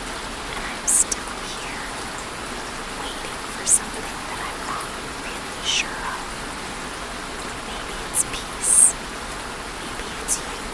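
Steady rain hiss, with a few short, sharp high-pitched sounds standing out over it every couple of seconds.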